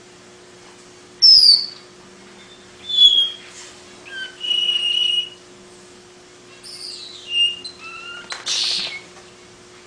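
Long-tailed paradise whydah singing: a string of separate whistled notes, some sliding down in pitch and one held steady for nearly a second, ending in a harsh rasping chatter.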